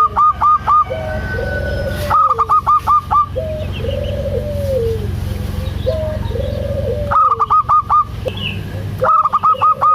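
Zebra dove (perkutut) song: arched cooing notes repeated between four loud bursts of rapid, evenly spaced higher clipped notes, over a steady low hum.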